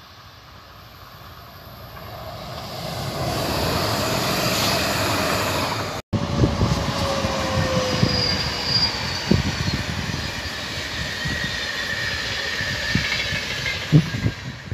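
Electric train approaching, its rolling noise swelling over a few seconds. After a sudden cut, a locomotive-hauled Intercity train rolls past, its wheels clicking over rail joints and squealing briefly, with one squeal falling slightly in pitch.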